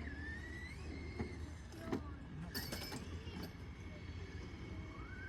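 Electric motor of a radio-controlled motorcycle whining as it is driven, the pitch rising and falling with the throttle. There is a brief clatter about halfway through and a few sharp clicks.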